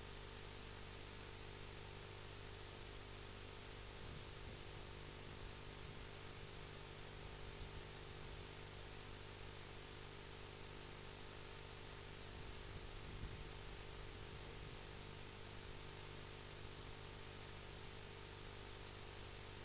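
Steady hiss with a faint electrical hum and a thin high whine, with a couple of faint low bumps partway through.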